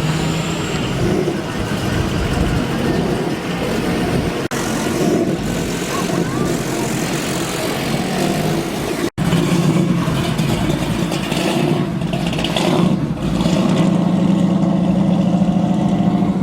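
Loud car engine noise at a car show, with some voices mixed in. The sound drops out abruptly about nine seconds in and starts again.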